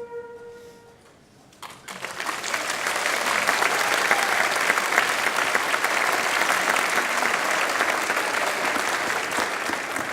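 A flute section's last held note dies away, then the audience breaks into applause about two seconds in and keeps clapping steadily.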